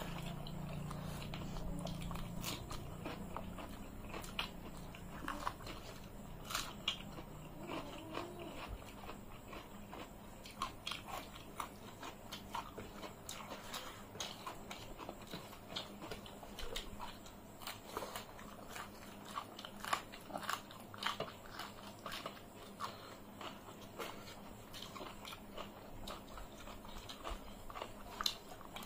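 Close-miked chewing and mouth sounds of people eating rice and chicken curry by hand, with many short, irregular clicks. A low hum sits under it during the first few seconds.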